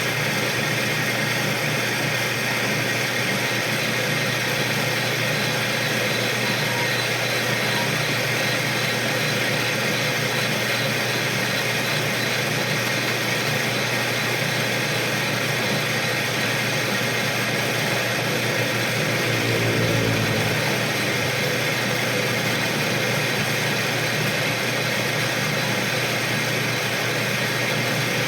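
Metal lathe running steadily while turning the sleeved alloy hub, with a brief deeper swell about twenty seconds in.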